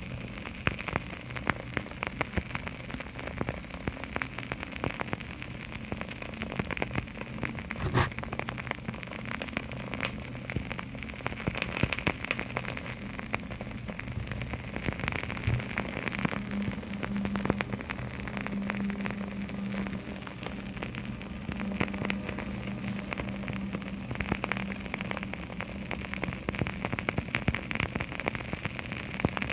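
Dense, quick light tapping and crackling: fingertips and nails on small boxes mixed with the crackle of burning wooden-wick candles, with a low steady hum underneath.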